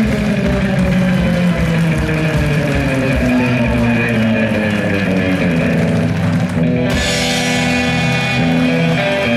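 Live band music, loud and steady, with guitar to the fore.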